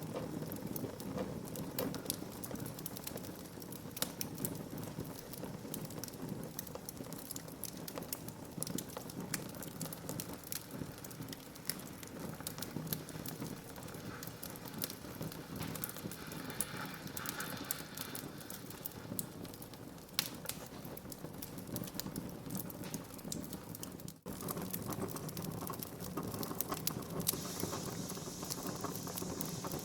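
Burning wood fire crackling, with frequent irregular sharp pops and snaps over a steady hiss of the flames. The sound cuts out for a split second about two-thirds of the way through.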